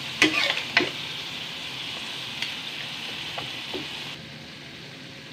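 Chicken pieces frying in a steel wok with a steady sizzle, and a metal spatula scraping the wok a few times in the first second as it stirs them. The sizzle drops lower about four seconds in.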